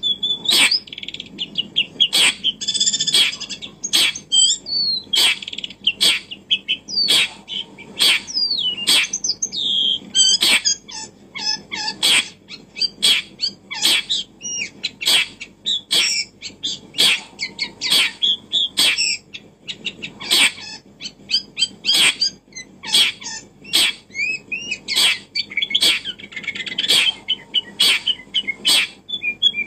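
Small birds chirping and twittering, with a sharp click repeating about once a second.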